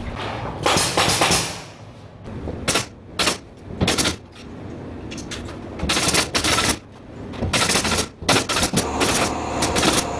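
Pneumatic nail gun (air tacker) firing a run of sharp shots in irregular groups, busiest in the second half.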